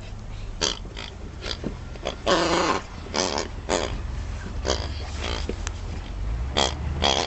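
A Bernese Mountain Dog chewing a toy pig that gives out short squeaks and grunting oinks as it is squeezed. There are about ten in all, irregularly spaced; the longest, about two seconds in, lasts roughly half a second with a wavering pitch.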